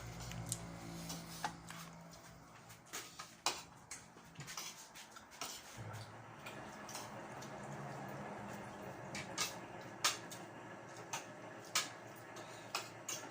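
Cutlery and dishes clinking during a meal: scattered sharp clinks of utensils against plates, a few seconds apart.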